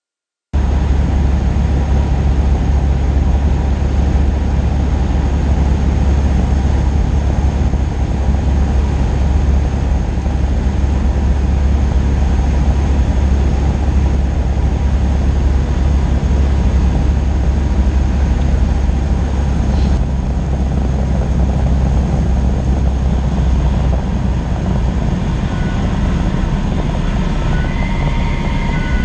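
Cessna 182 Skylane's piston engine and propeller droning steadily in cruise, heard from inside the cabin. The sound starts abruptly about half a second in.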